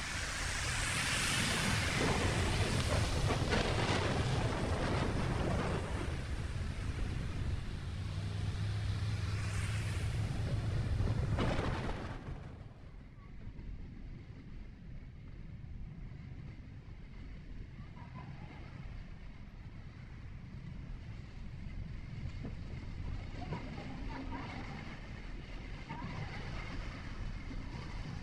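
A vehicle driving: steady engine and tyre/road noise with a low rumble. The noise is louder for about the first twelve seconds, then drops abruptly to a quieter hum.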